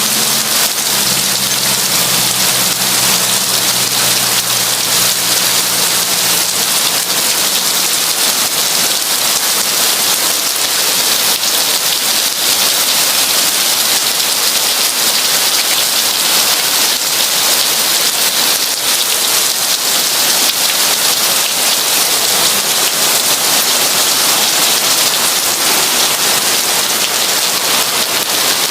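Heavy rain falling steadily, an even hiss of drops with no break. A low rumble underneath dies away over the first several seconds.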